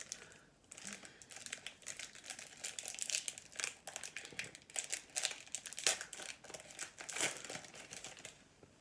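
Foil hockey card pack being torn open and handled, an irregular run of crinkling and crackling that stops shortly before the end.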